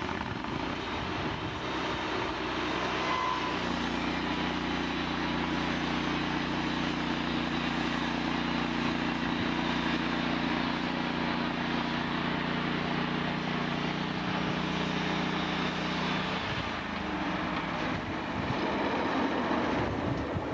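Sawmill's engine running steadily over broad noise, with a stack of steady pitched tones that drop away about sixteen seconds in.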